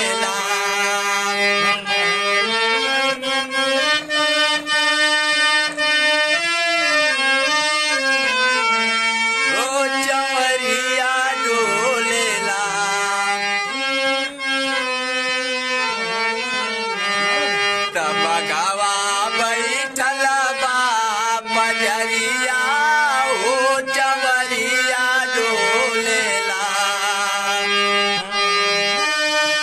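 Instrumental passage of a Bhojpuri devotional folk song: a harmonium plays a melody over steady held low notes.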